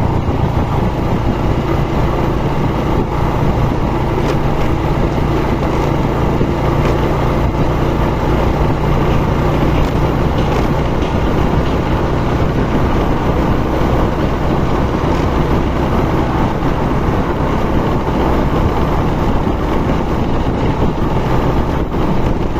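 Vehicle engine running steadily on the move, with a continuous rush of wind and road noise.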